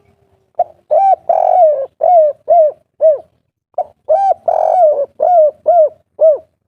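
Spotted dove (tekukur) cooing the kuk-3 song. It gives two phrases, each a run of about seven short arched coos, and the second phrase starts about halfway through.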